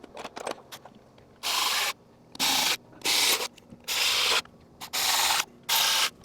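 Cordless electric ratchet running in six short bursts, about one a second, as it runs down the lower intake manifold bolts. Light clicks come between the bursts.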